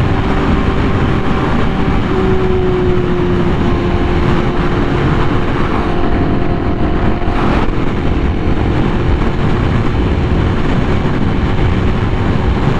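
Honda Fireblade RR-R SP's inline-four engine with an SC Project exhaust running steadily at a slow cruise, with heavy wind rush. The pitch shifts slightly about two seconds in, and there is a short burst of noise about seven and a half seconds in.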